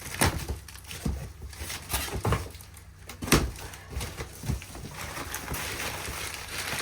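Items being handled while rummaging through a box: a string of irregular knocks and clunks, then a steadier rustling from about five seconds in.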